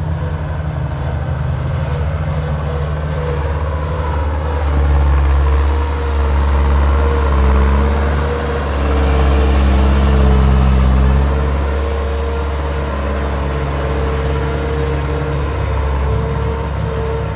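Heavy diesel engine of a six-wheel truck running steadily, revving harder for several seconds from about five seconds in, then settling back.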